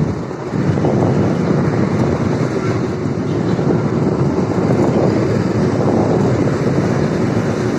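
Wind buffeting the microphone of a camera carried on a moving bicycle, a steady rough rushing noise.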